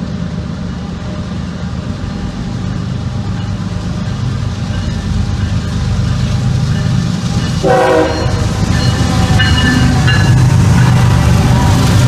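BNSF freight train's diesel locomotives approaching and passing, their engine drone growing steadily louder. A short horn blast sounds about eight seconds in.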